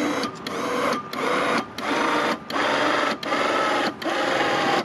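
Electric winch motor winding in its cable under load, whining in about seven short spurts separated by brief pauses.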